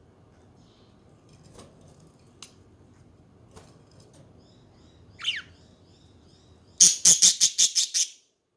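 Budgerigars chirping: soft scattered chirps and a few faint clicks, a quick falling chirp about five seconds in, then a loud, rapid run of about eight sharp chirps near the end.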